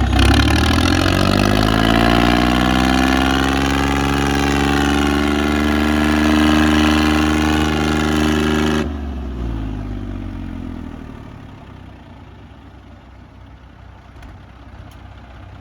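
Tractor diesel engine revving up and held at high revs under hard load, then the throttle is dropped about nine seconds in and the engine winds down to a lower, quieter run.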